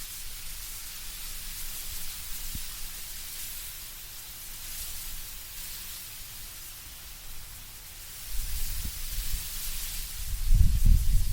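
Wind moving through autumn trees, a steady hiss of rustling leaves that swells and eases. From about eight seconds in, low gusts rumble on the microphone, loudest near the end.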